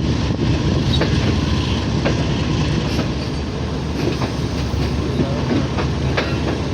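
Moving passenger train: a steady low rumble of the coaches, with wheels clicking over rail joints roughly once a second.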